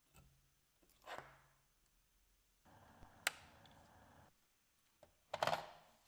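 Faint, scattered handling noises from work on wooden furniture: a short swish about a second in, a soft rustle with one sharp click in the middle, and another short swish near the end.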